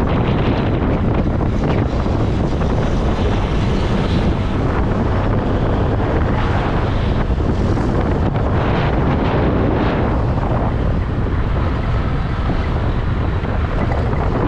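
Steady, loud wind buffeting the microphone of a rider on a moving Honda Click 125i scooter, with the scooter's engine and road noise underneath.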